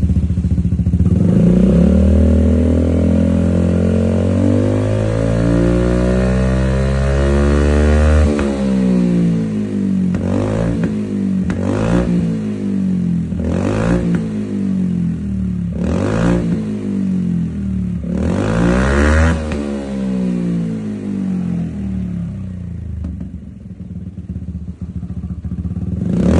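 Italjet Dragster 250cc scooter engine running through a newly fitted Arrow aftermarket muffler. It revs up and holds high for several seconds, drops, then is given about five short throttle blips before settling back to idle near the end.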